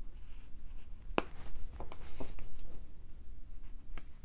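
A few small, sharp clicks and ticks of a wire eye pin and beads being handled and bent into loops, the clearest about a second in and another near the end.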